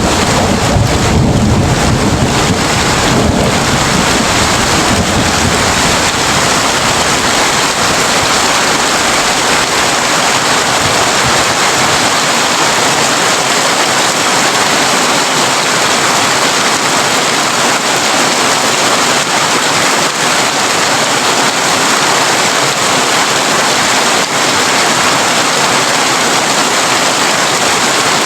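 Heavy rain drumming steadily on a corrugated tin roof. A low thunder rumble fills the first several seconds and dies away about ten seconds in.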